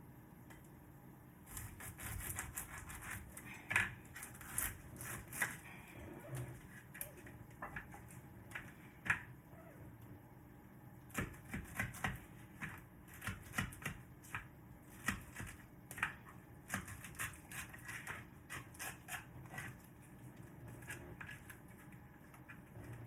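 Irregular clicking and tapping of kitchen utensils during food preparation, a quick uneven run of light knocks that starts a second or two in.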